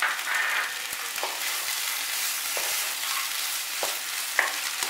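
Banana flower, coconut paste and soaked chickpeas sizzling in oil in a non-stick kadai while being stirred with a wooden spatula. A steady hiss runs throughout, with a light knock or scrape of the spatula on the pan about once a second.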